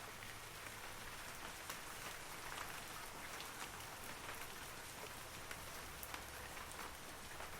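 Steady rain falling on forest trees, a soft even hiss with many separate droplets ticking through it.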